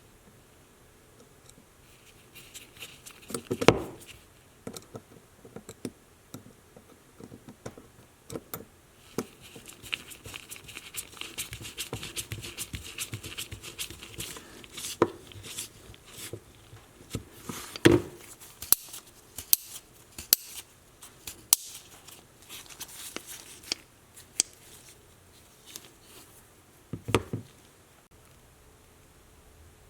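Vintage Bernard plier-style leather hole punch being worked by hand: its metal jaws and pivot click and snap many times, with three louder snaps. A stretch of light scraping runs through the middle.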